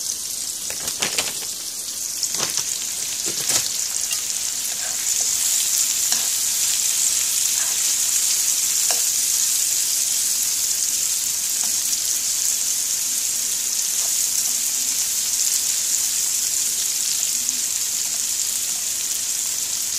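Bitter melon and SPAM slices sizzling as they stir-fry in a nonstick frying pan, with a few light knocks in the first few seconds. The sizzle grows louder about five seconds in and then holds steady.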